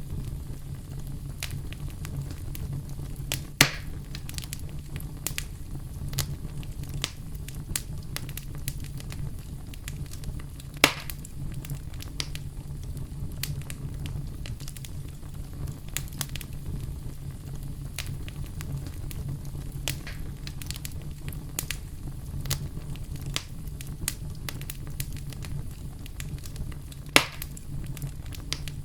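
Bonfire crackling and popping: frequent sharp snaps of burning wood over a steady low rumble, with three louder pops, about 4 seconds in, about 11 seconds in and near the end.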